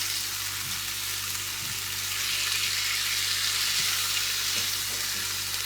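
Shrimp in chermoula marinade frying in a very hot pan: a steady sizzle, with a few faint knocks from stirring. The high heat sears the shrimp so they don't release their liquid.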